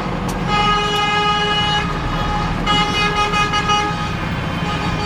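Truck horn blown in two long blasts, each about a second or more, over the low, steady running of truck engines.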